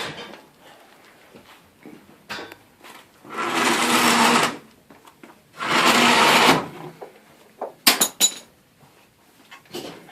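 A power drill or driver running in two bursts of about a second each, followed by a few sharp metallic clicks.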